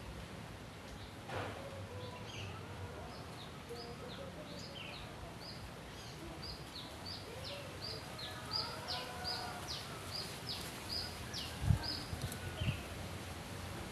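A small songbird calling a long series of short high chirps, about two to three a second, over a steady background hiss. A few dull thumps near the end, one of them the loudest sound.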